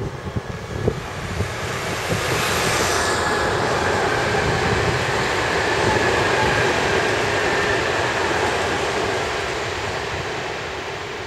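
Nankai Main Line electric train passing: a steady rumble and rush of wheels on rails that builds over the first two seconds, holds, then slowly eases off near the end.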